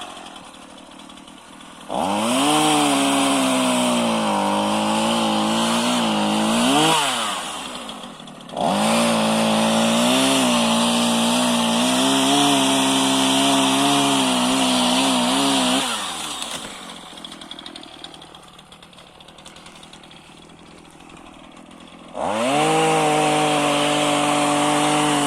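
Small gasoline chainsaw revving at full throttle in three long bursts of several seconds each, dropping back to idle between them. Its pitch wavers and sags as it cuts small branches.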